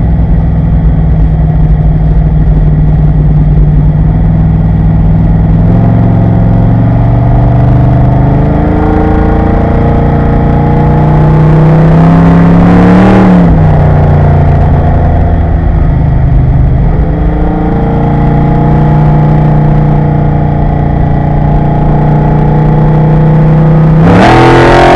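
Corvette Grand Sport race car's V8 engine at racing speed, heard from inside the car. The pitch climbs under hard acceleration and peaks and drops about halfway through at a gear change, then climbs again, with a brief loud flare of revs near the end.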